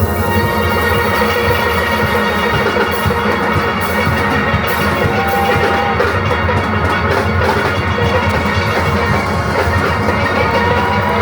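Steel orchestra of many steel pans playing loudly together over a drum and percussion rhythm section. The full band comes in with a loud hit at the start and keeps playing.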